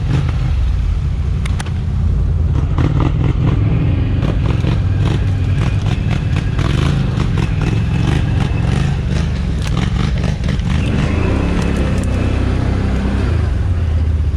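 Can-Am Outlander 1000 XMR ATV's V-twin engine running steadily under way off-road, with many short knocks and clatters from the machine over rough ground.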